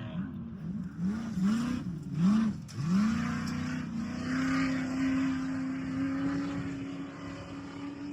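Off-road race vehicle engine revving in quick repeated rises and drops of pitch, as the throttle is blipped, then held at high revs and fading near the end.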